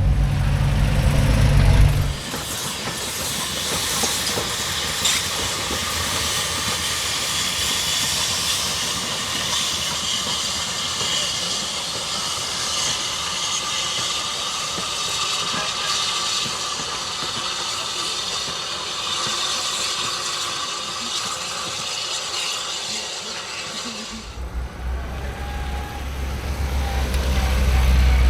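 Steam locomotive letting off a steady hiss of steam, which starts about two seconds in and cuts off about four seconds before the end. A low rumble is heard at the start and again near the end.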